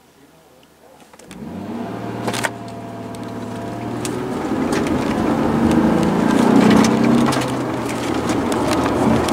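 Lexus GS sedan's engine, heard from inside the cabin, pulling away hard from a standstill about a second in and getting steadily louder as the car accelerates. There is a sharp click about two and a half seconds in.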